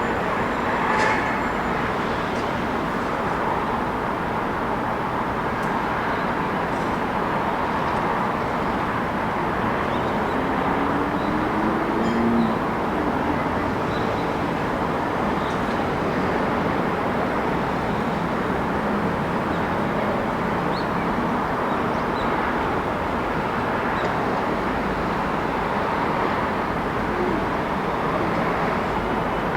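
City street ambience: a steady wash of traffic noise, with a short pitched sound rising and falling about eleven to twelve seconds in.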